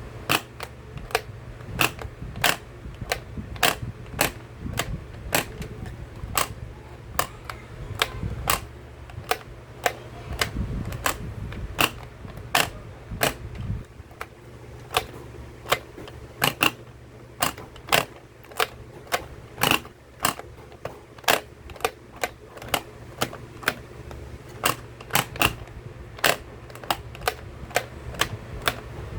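Pop-up toy clicking and popping: a long run of sharp snaps, one or two a second at uneven spacing, with a low rumble under them through the first half.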